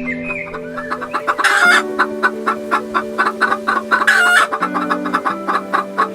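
Chicken clucking in a rapid, even run, about four clucks a second, with two louder, harsher squawks about a second and a half and four seconds in. Steady background music plays underneath.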